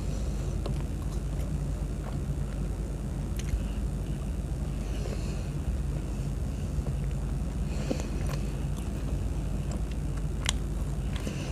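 A person eating: scattered clicks of biting and chewing over a steady low hum.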